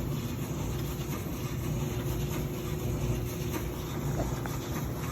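Steady low background rumble with a faint hum and no distinct events.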